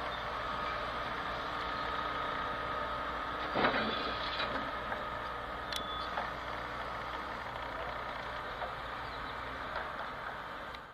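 Union Pacific hi-rail truck pulling open hopper cars slowly along the track: a steady running noise with a thin high tone held for the first six seconds, and a single clank about three and a half seconds in.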